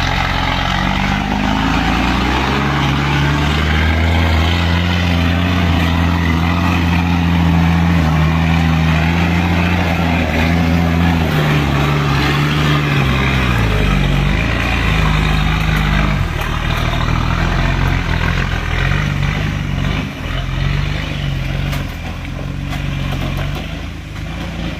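Truck's diesel engine running, its engine note holding steady for about ten seconds, then dropping about halfway through and rising and falling after that.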